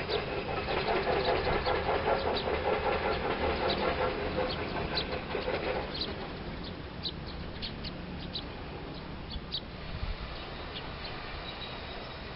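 Wild birds giving short, sharp high chirps over a steady low rumble. For about the first half a louder, rapid rattling sound runs alongside them, then fades.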